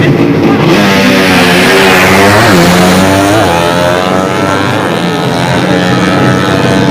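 Drag-racing motorcycle engines at full throttle, their pitch climbing and dropping several times, loudest in the middle.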